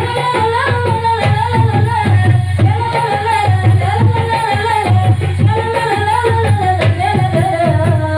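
Marawis ensemble playing: hand drums beating a steady repeating rhythm under a singer's wavering melody.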